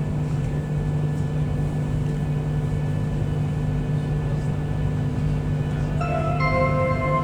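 Steady electric hum inside the cabin of a Virgin Trains Class 390 Pendolino. About six seconds in, the on-board public-address chime sounds a few stepped notes, the signal that an announcement is coming.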